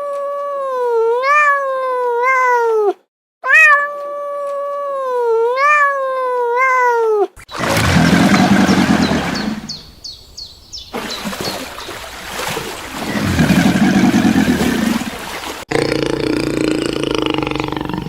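A sequence of animal calls. First come two long, wavering, high-pitched calls with repeated rises in pitch. About seven seconds in they give way to deeper, rough calls that swell twice, and a different animal sound follows near the end.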